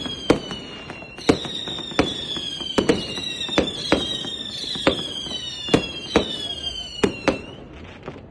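A celebratory salute of sharp bangs, about a dozen at uneven intervals, over a high whistle that slowly falls in pitch, jumps back up now and then, and stops near the end.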